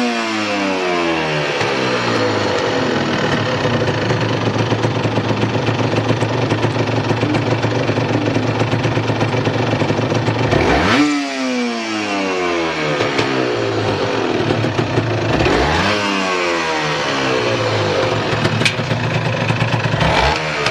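Honda NS125R's 125 cc two-stroke single-cylinder engine idling steadily and revved in quick throttle blips, about halfway through, again a few seconds later and near the end; each time the pitch shoots up and then sinks slowly back to idle. The seller judges the idle stable, with no abnormal noise.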